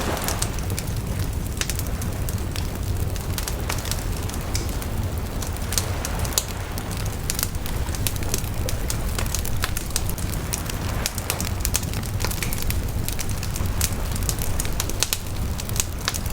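Wood bonfire crackling, with many sharp pops and snaps scattered irregularly over a steady low rumble.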